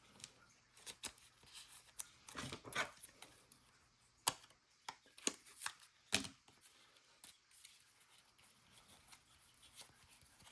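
Trading cards being handled and flipped through: irregular light clicks, snaps and short slides of card stock, busier in the first half and sparser after.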